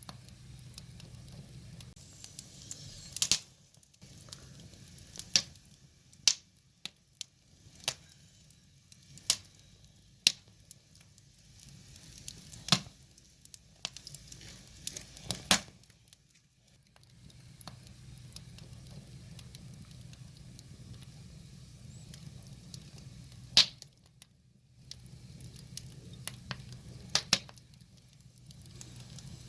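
Firewood burning in an open fire, the logs crackling with sharp, irregular pops, under a faint low hum that comes and goes.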